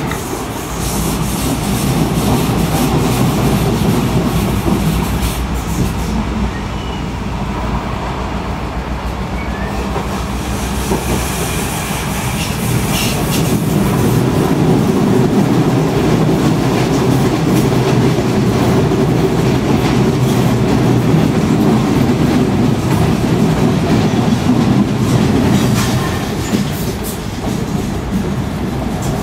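Running noise inside a locomotive-hauled S-Bahn passenger coach moving along the line: a steady low rumble with the clickety-clack of the wheels over the rail joints, growing a little louder about halfway through.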